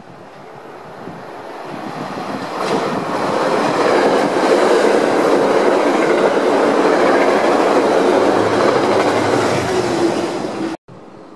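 Metro-North passenger train with red-striped coaches passing along the near track at speed. It builds over the first few seconds as it comes alongside, then runs loud and steady, and cuts off suddenly near the end.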